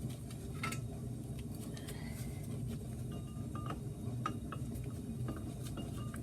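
Scattered light metallic clinks and taps, some with a short ring, as a brake caliper and its bolts are handled and fitted back over the front rotor of a 2004 Ford Mustang, over a steady low hum.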